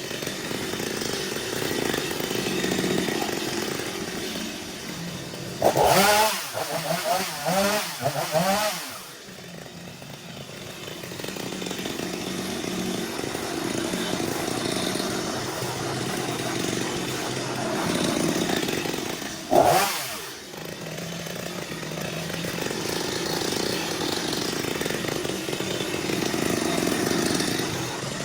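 Two-stroke chainsaw engine running steadily, revved hard in a few quick bursts about six seconds in and once more briefly about twenty seconds in.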